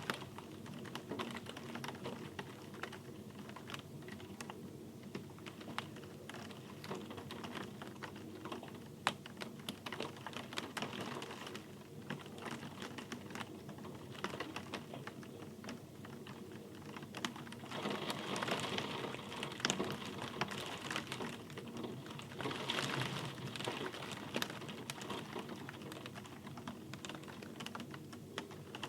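Rain falling, with many sharp, separate drops tapping close by over a steady hiss. The rain swells twice about two-thirds of the way through.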